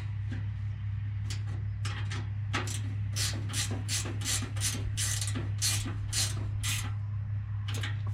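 A ratchet wrench being worked back and forth to tighten a bolt: a quick run of clicking, rasping strokes, about three a second, with a pause and two last strokes near the end. A steady low hum runs underneath.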